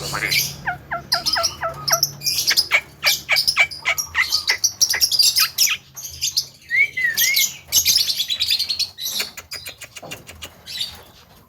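Javan myna (jalak kebo) calling in a varied jumble: a quick string of repeated two-note chirps, then many sharp clicking notes, a short wavering whistle about halfway through, and a fast rattle of clicks near the end.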